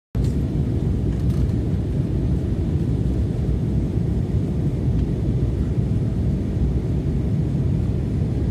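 Airliner's steady low rumble, even throughout with no distinct events.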